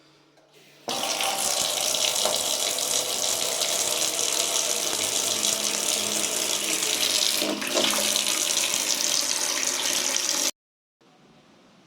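Water spraying steadily and hard. It starts suddenly about a second in and cuts off abruptly near the end.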